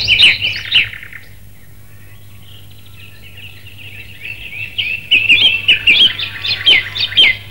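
Birds chirping in quick runs of short, high, gliding notes: a burst in the first second, a lull, then chirping building again and busiest in the last few seconds. A steady low hum runs underneath.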